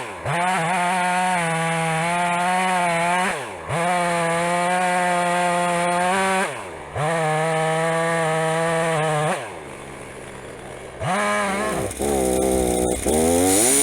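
Two-stroke chainsaw running at full throttle through firewood cuts, its engine note dipping briefly about every three seconds. It drops to a quieter idle a little after halfway, then revs up again near the end.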